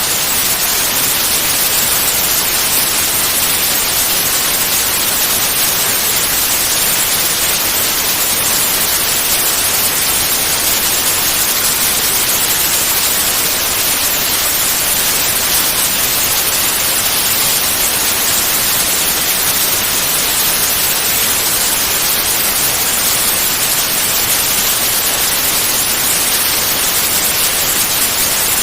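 Steady synthetic white noise: an even, loud hiss that doesn't change, brightest in the treble, used to lull a baby to sleep.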